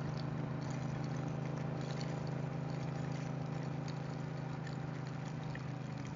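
Motorcycle engine running steadily at cruising speed, a constant low drone, with faint scattered ticks of rain.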